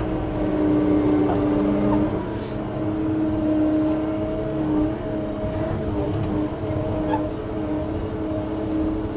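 John Deere 335P skid steer's diesel engine running steadily at working speed, a constant droning pitch over a low rumble, as the machine drives back and forth spreading rock.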